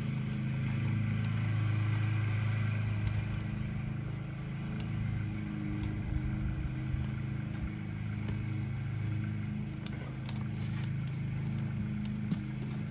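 A steady low mechanical hum, with a few light clicks near the end.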